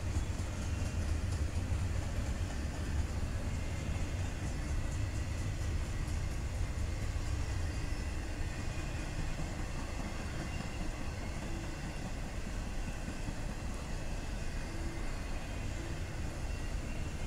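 CSX intermodal freight train of double-stack container cars rolling past, a steady rumble of steel wheels on the rails.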